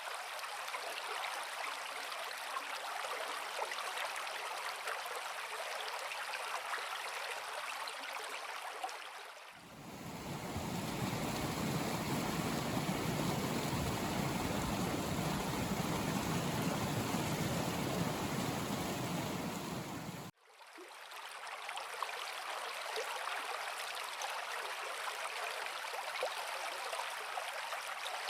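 River water flowing steadily. About ten seconds in the sound becomes louder and deeper, a fuller rush of water, and near twenty seconds it cuts abruptly back to the lighter, thinner flow.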